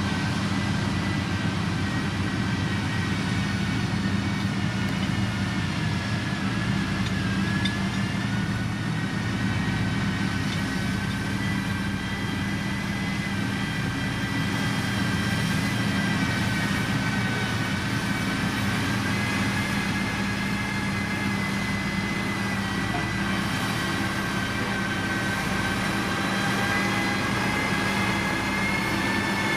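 Diesel engine of heavy road-building machinery, a motor grader or road roller, running steadily under load. A steady low drone runs under a thin high whine that drifts slowly in pitch.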